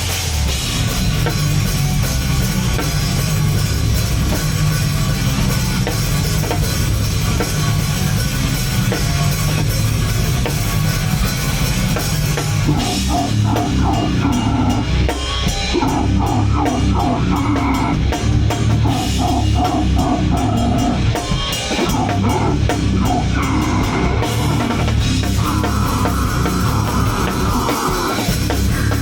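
Heavy rock band playing live at full volume, with the drum kit prominent. The riff changes a little under halfway through.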